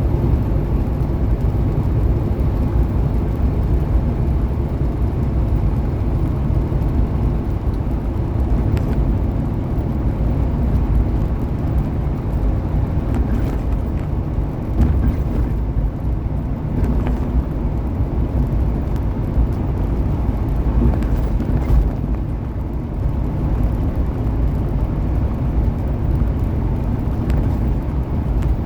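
Inside a semi truck's cab at highway speed: a steady low drone of engine and road noise, with a few faint scattered clicks.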